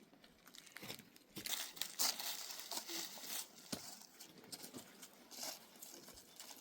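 Irregular rustling and crinkling with scattered light knocks, the sound of something being handled.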